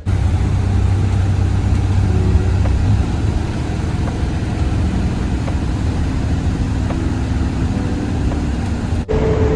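Engine and road noise heard from inside a moving vehicle, a steady loud rumble. It breaks off at a cut about nine seconds in, and similar noise carries on with a steady hum over it.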